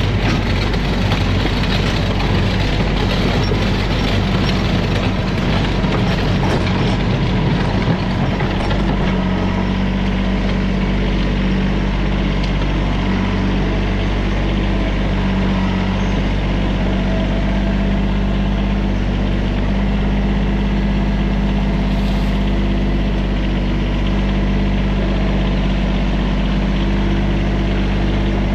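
Diesel engine of a TYM tractor-loader-backhoe running steadily throughout, its note settling and holding even from about nine seconds in.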